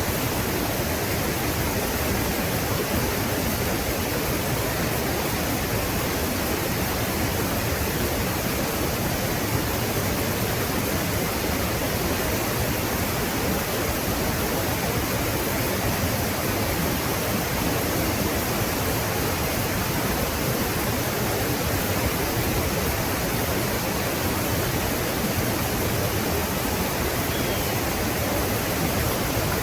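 Waterfall water rushing in a steady, even noise that does not change.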